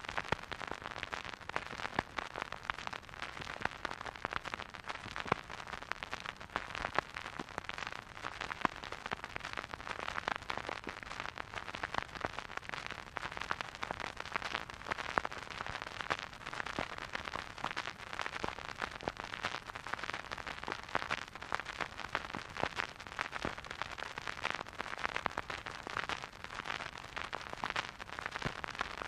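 Vinyl record surface noise from a spinning turntable: a steady hiss with dense small crackles and pops, no music.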